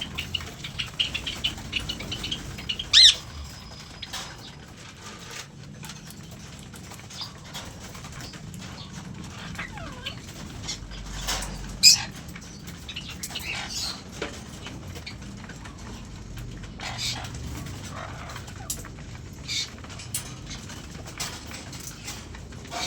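Caged aviary birds calling: a run of quick high chirps at the start, two loud squawks about three and twelve seconds in, and scattered shorter calls and small clicks in between.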